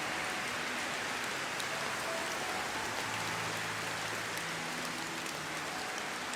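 Steady heavy rain falling, an even hiss with fine drop patter, with faint low held notes underneath.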